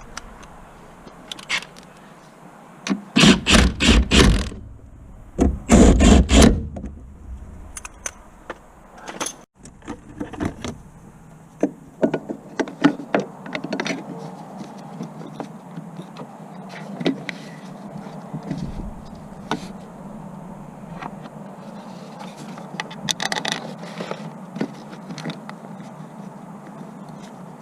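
Hand tools and metal parts being handled during a car clutch job: two short bursts of rapid clatter a few seconds in, then scattered clicks and scrapes over a steady low hum.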